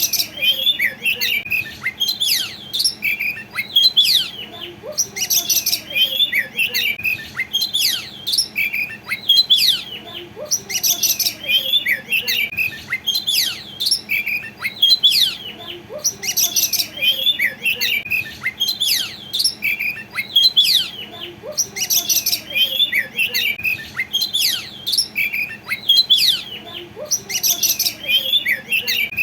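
Oriental magpie-robin (kacer) in full song: a rapid, unbroken jumble of whistles, chirps and sharp high notes in phrases that follow one another every second or two.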